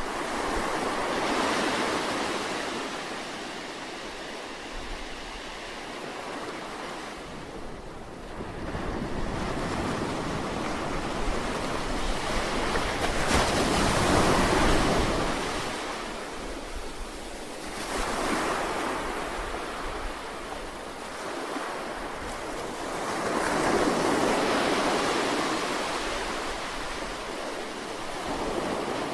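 Ocean waves breaking and washing ashore in slow, repeated surges, each swelling for a few seconds and then ebbing, the largest about halfway through.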